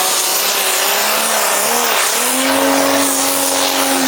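Single-turbo pulling tractor engine at full throttle during a pull. Its pitch climbs about halfway through and holds high, over a steady rushing hiss, then starts to fall away at the very end.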